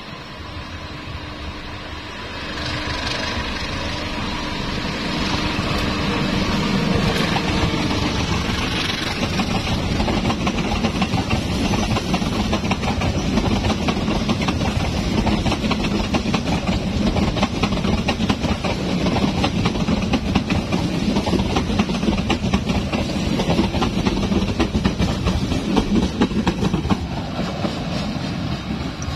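Diesel-electric locomotive of an Indonesian passenger train approaching along the track, its engine and wheels growing louder over the first several seconds and then running steadily as it draws near.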